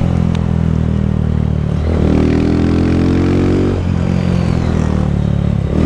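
Honda motorcycle engine running under throttle while riding. Its pitch climbs gradually, drops briefly about two seconds in and again about four seconds in, then climbs again each time. A rush of wind runs underneath.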